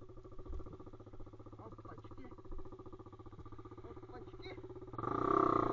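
Pit bike's single-cylinder four-stroke engine running at low revs with an even, fast putter, then revving up louder about five seconds in.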